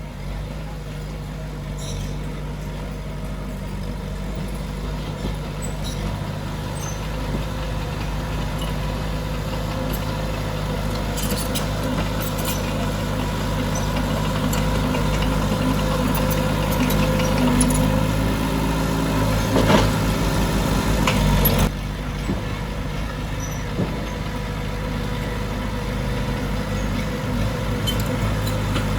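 Diesel engine of heavy earthmoving machinery running steadily and building gradually in loudness, with a few knocks about twenty seconds in, then dropping off suddenly just after.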